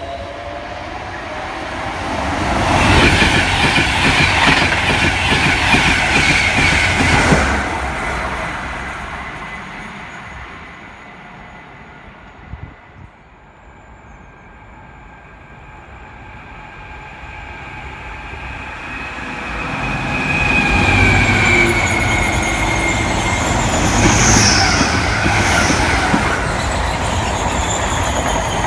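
A train runs past at speed, then fades away. About two-thirds through, a DB class 66 diesel-hauled freight train arrives and runs past. Its wagon wheels clatter and squeal high and thin on the rails.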